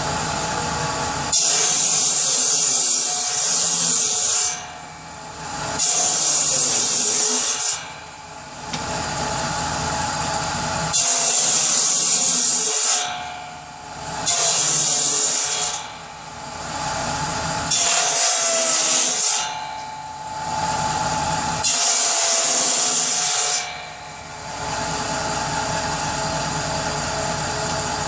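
Power saw cutting kindling wood: about six cuts of one to three seconds each, a loud hissing rasp as the blade goes through the wood. Between cuts the saw runs steadily with no load.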